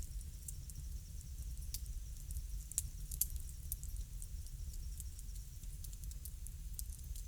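Wood fire crackling: scattered sharp pops at irregular intervals over a low steady rumble.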